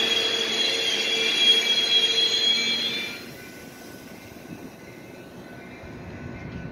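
Metra bilevel commuter cars rolling past on steel wheels, with high-pitched wheel squeal over the rolling noise. About three seconds in the sound drops sharply to a much quieter steady rumble.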